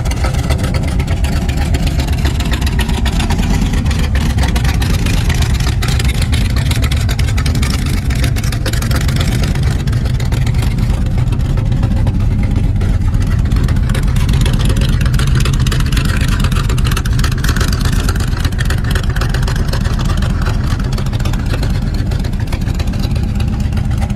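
A 1975 Chevrolet Nova's engine running, loud and steady, with a heavy low exhaust note.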